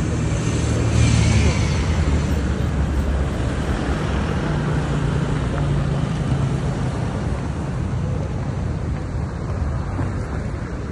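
A car engine running slowly at close range, its low hum swelling in the first few seconds and again about halfway through, over steady street noise.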